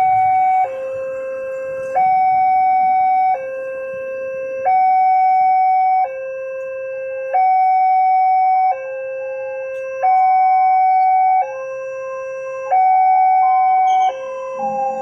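Railway level-crossing warning alarm sounding a two-tone electronic signal, alternating between a lower and a higher tone roughly every second and a half, the higher one louder. It warns that a train is approaching the crossing.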